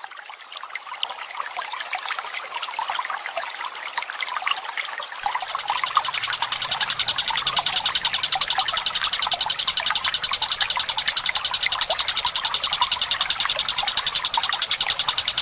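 Water trickling and splashing steadily; from about six seconds in, a tengkek buto's long, rapid rolling trill of evenly repeated high notes joins over the water and becomes the loudest sound.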